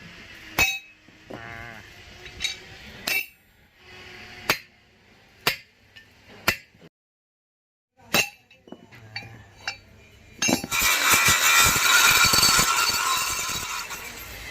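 Hammer blows on steel, sharp separate strikes about once a second with a short metallic ring. About ten seconds in, a loud, harsh, sustained metal-working noise starts and slowly fades.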